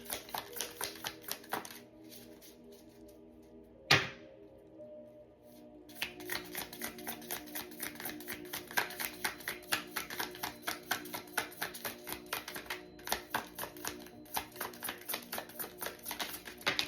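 A deck of cards being shuffled by hand: a rapid patter of card clicks, about five a second, that stops for a few seconds around a single sharp knock about four seconds in, then starts again. Soft background music with held tones plays underneath.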